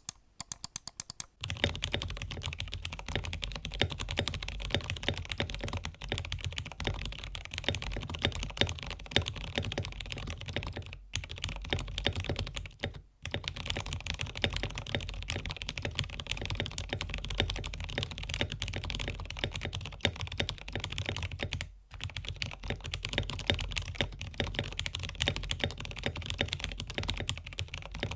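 Continuous fast typing on a Gamakay/Womier K87 mechanical keyboard on a desk mat. The keyboard is modded with lubed, filmed switches, clipped and lubed stabilizers, foam in the case and double-shot PBT keycaps. It makes a dense stream of key clacks, with brief pauses about 11, 13 and 22 seconds in.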